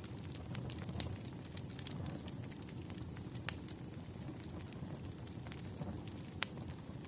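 Burning firewood crackling: a low, steady rush with scattered sharp pops, the loudest about one, three and a half and six and a half seconds in.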